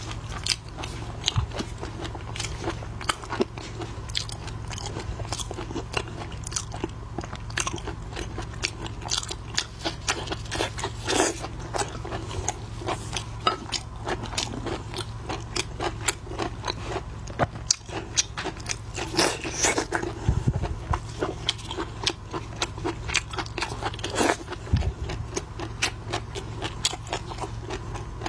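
Close-miked eating of shrimp: continuous biting, crunching and chewing, with many sharp clicks and a few louder snaps.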